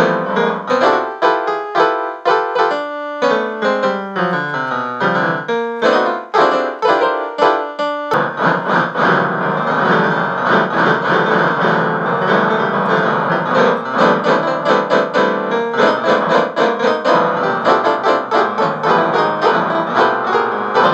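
Piano music: a run of separate notes, changing abruptly about eight seconds in to a denser, fuller passage with more bass.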